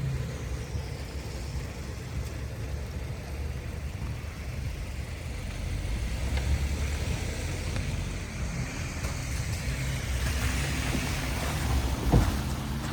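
City street traffic: a steady low rumble of passing cars, with wind on the microphone. One sharp thump near the end.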